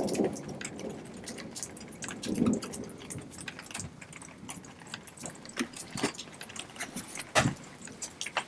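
Water dripping: irregular sharp drips and ticks at an uneven pace, with a short duller sound about two and a half seconds in.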